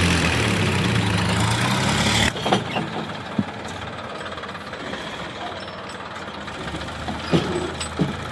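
A heavy vehicle's engine running loud and low, which stops suddenly about two seconds in. After that there is a quieter background with a few scattered sharp knocks.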